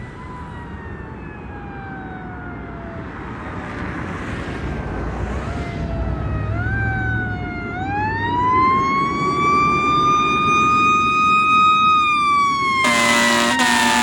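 Fire truck siren sliding slowly down in pitch, winding back up in steps and holding high, then starting to fall again, growing louder as the truck approaches. A loud steady air-horn blast starts near the end, over the truck's engine rumble.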